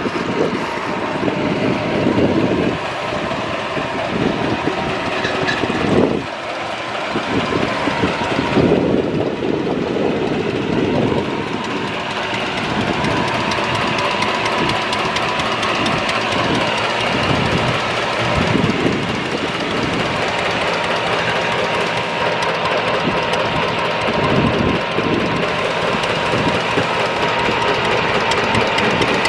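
Natural gas engine at a coal bed methane wellhead, chuffing steadily as it drives the pump that draws water off the well.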